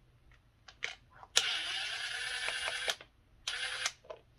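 A small power-tool motor runs in two bursts with sudden starts and stops: a long run of about a second and a half, then a short one of under half a second near the end.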